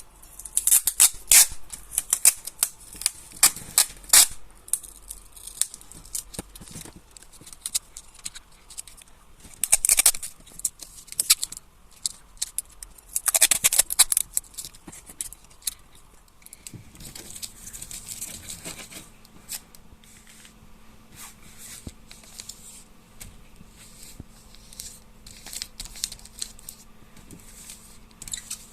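Sticky tape being pulled off the roll and torn, in several short crackling bursts, with paper rustling and small clicks between them.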